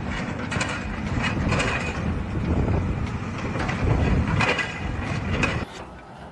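Mechanical clattering with irregular clicks and knocks, which stops sharply near the end.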